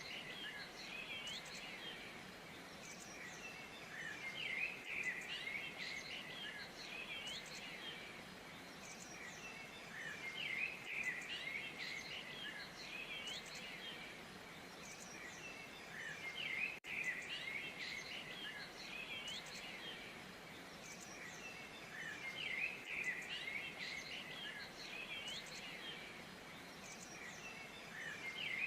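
Many birds chirping and singing at once, a dense chatter of short chirps and whistles over a faint steady hiss, with a brief dropout a little past halfway.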